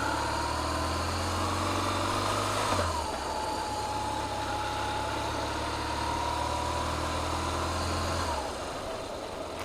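BMW motorcycle engine running at low speed as the bike is ridden slowly, a steady low drone that shifts in pitch about three seconds in and fades down near the end.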